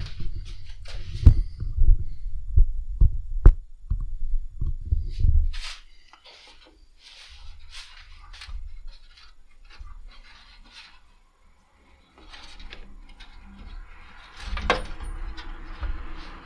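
Knocks and clunks of metal parts being handled while working around the radiator, a quick run of sharp hits at first, then lighter scattered clicks and rattles with one more knock near the end.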